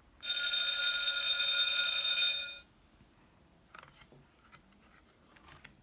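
Electronic sound button of a children's play-a-sound book playing a fire-station alarm bell through its small speaker, ringing steadily for about two and a half seconds and then cutting off. A few faint clicks follow near the end.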